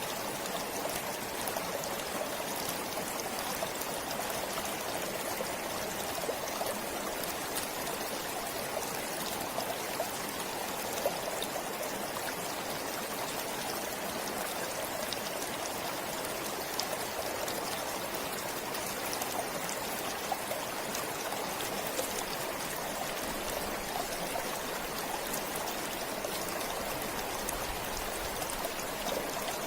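A forest stream flowing steadily, with small splashes and trickles over the running water.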